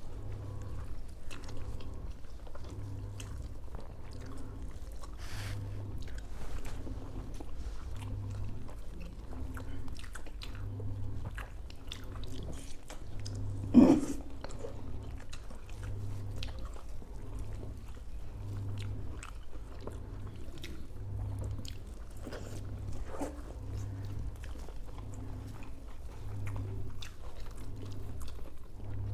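Close-up chewing and mouth sounds of people eating soft South Indian tiffin: idli and vada with sambar, and upma pesarattu. The chewing keeps a steady rhythm a little over once a second, with small wet clicks, and one brief louder vocal sound about 14 seconds in.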